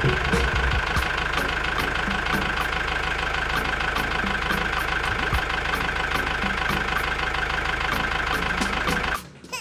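Small motor of a homemade mini tractor running steadily, with a regular ticking about twice a second; it cuts off near the end.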